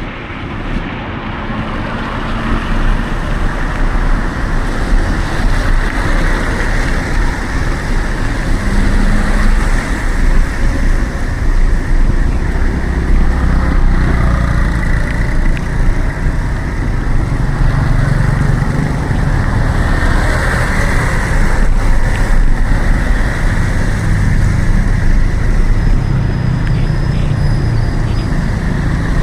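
Road traffic heard close by from a bicycle in city streets: motor vehicle engines running over a steady wash of road noise, with a low engine drone growing louder in the second half.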